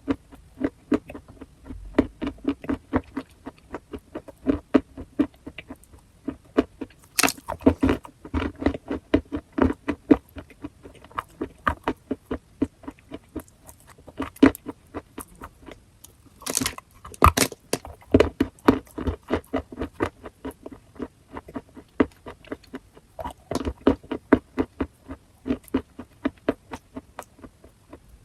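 Chalk being chewed close to the microphone: a steady run of short, crisp crunches, about three or four a second, with a few louder, sharper cracks about a third of the way in and again past the middle.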